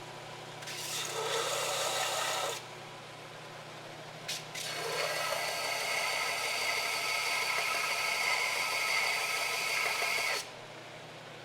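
A power tool working metal, running in two bursts: a short one of about two seconds near the start and a longer one of about five seconds from about five seconds in. A steady low hum runs underneath throughout.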